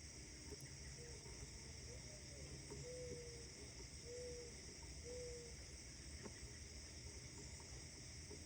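Faint outdoor morning ambience: a steady high insect chorus, with a bird giving five short, low, clear call notes about a second apart.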